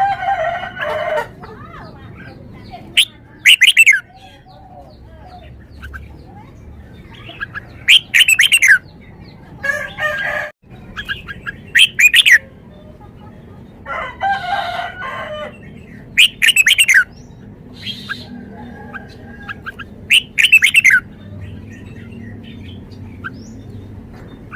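Red-whiskered bulbul singing short, loud, warbling phrases about every four seconds. Between the phrases come longer, lower calls with several pitches stacked together.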